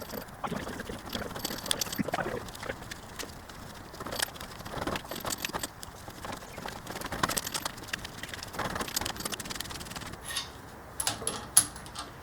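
Irregular light metallic clicks and scrapes as tools and parts are handled while adjusting a coilover, with one sharper click near the end.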